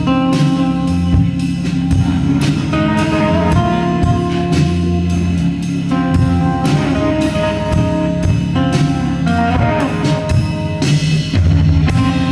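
Live rock band playing an instrumental passage: sustained guitar notes over a steady beat of drum kit strikes, with no singing.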